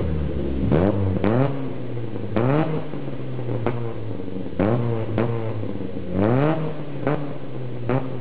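Car engine revved through its exhaust in a stationary sound test: about nine quick throttle blips, each sweeping up in pitch and dropping back to a steady idle.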